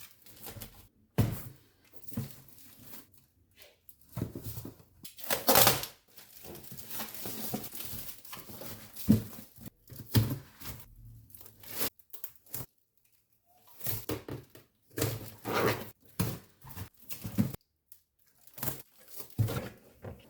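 A cardboard shipping box being closed and sealed by hand: tape pulled off the roll and torn in irregular strokes, with paper crinkling and the box knocking between them.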